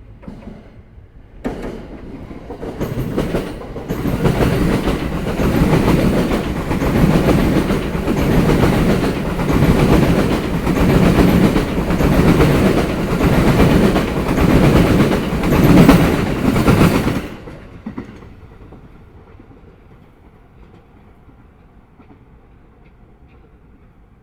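Sobu Line electric train passing over rail joints, its wheels beating out a loud, rhythmic clickety-clack that pulses about every second and a half. The sound builds over the first few seconds and cuts off suddenly about three-quarters of the way through, leaving a faint low hum.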